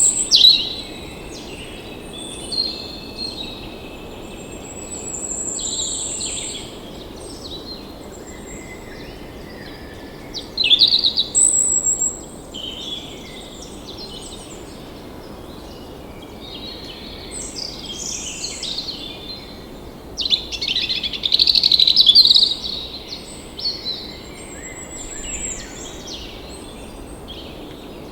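Several songbirds singing and chirping in overlapping high trills and whistles over a steady background hiss, with louder, busier phrases about ten seconds in and again around twenty seconds in.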